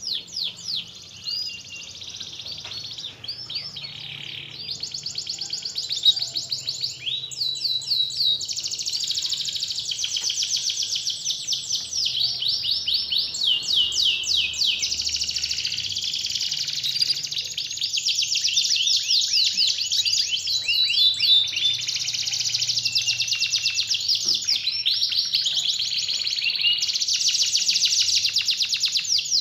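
Domestic canary singing a long, unbroken song of rapid high trills and rolls. The song shifts from one repeated phrase to the next every second or two.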